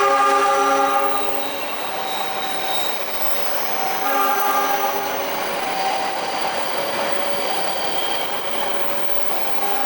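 Diesel train horn sounding a long note that stops about a second and a half in, then a shorter blast about four seconds in, over the steady rumble of a train rolling past the level crossing.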